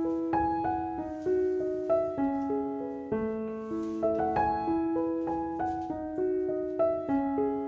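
Soft background piano music, notes struck one after another and left to ring in a gentle, flowing pattern.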